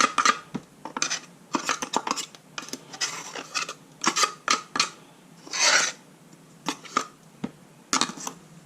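Utensil scraping and tapping against a dish in irregular short strokes, with one longer scrape near the middle, as ground roasted spices are scraped into yogurt.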